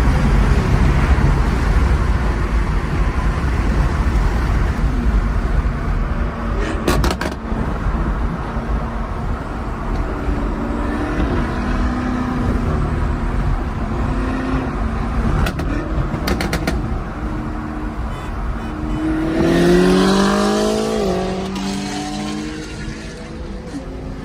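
Performance car engines running and passing, the loudest a rev that rises sharply in pitch about twenty seconds in. A few short sharp clicks come about seven and sixteen seconds in.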